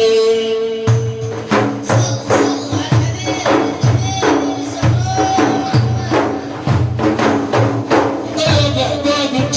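Madih percussion, frame drums and tambourine, playing a steady rhythm of about two deep beats a second with sharp jingling strokes between, after a single held note at the start.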